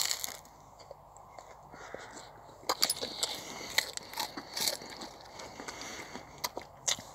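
Crunchy biting and chewing of toast close to the microphone, sparse at first and turning to dense, rapid crunching from about three seconds in.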